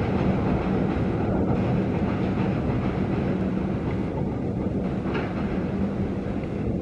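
Express train passenger coaches running across a steel truss bridge: a steady rumble of wheels on the rails with a low hum underneath, fading slightly as the train moves away.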